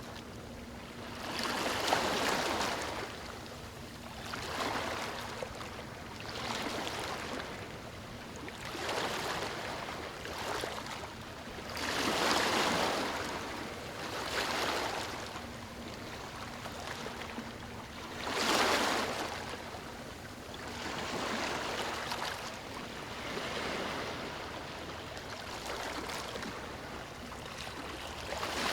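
Ocean waves breaking and washing up a beach: a rushing hiss that swells and fades over and over, every two to three seconds, some surges louder than others.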